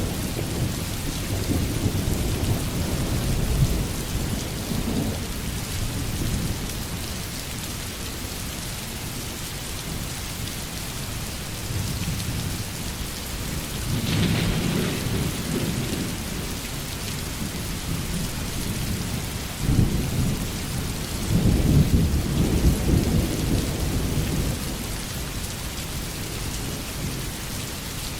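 Heavy rain falling steadily, with thunder rumbling several times; the strongest roll comes a little past the middle and lasts several seconds.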